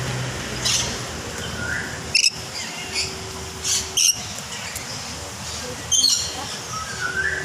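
Parrots giving a string of short, shrill squawks and chirps, some seconds apart.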